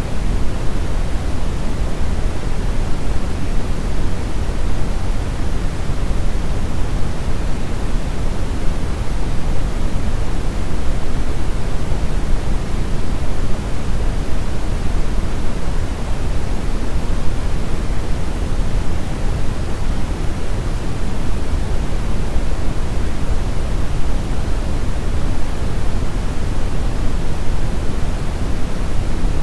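Steady brown noise: an even, unchanging hiss-like rumble, strongest in the lows and falling off toward the highs.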